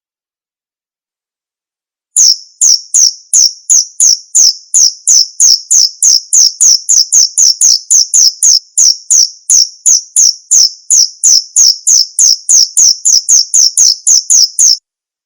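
Male cricket calling: a loud, even series of high chirps, about three a second, starting about two seconds in and cutting off abruptly near the end.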